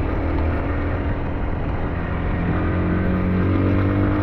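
SYM NHT 200 scooter engine running while riding, with steady wind and road noise. About halfway through, the engine note comes through more clearly and rises a little in pitch.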